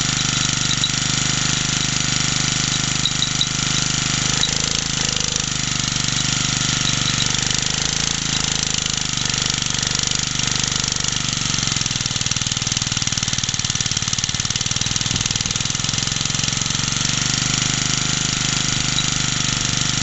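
Small 50cc BSA stationary engine of a field charger, driving its dynamo and running steadily under its governor, its speed swaying slightly through the middle.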